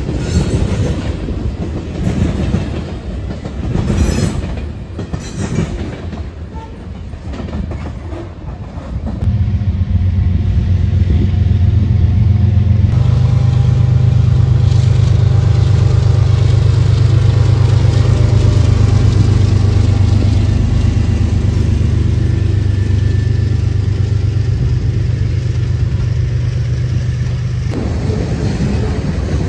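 Freight train of covered hopper cars rolling past, wheels clattering over the rails. About nine seconds in, a mid-train Norfolk Southern diesel locomotive (distributed power unit) comes by with a loud, steady low engine drone. Near the end the drone drops away and the rail car clatter returns.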